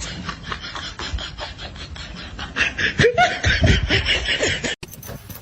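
A person laughing in short bursts, growing louder about halfway through; near the end the sound cuts abruptly to a different recording.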